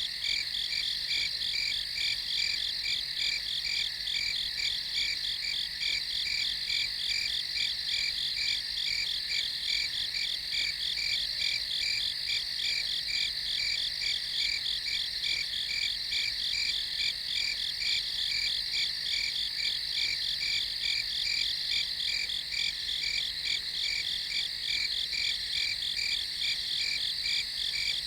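Night chorus of crickets chirping in steady, evenly pulsing high-pitched trills, unbroken and constant in level.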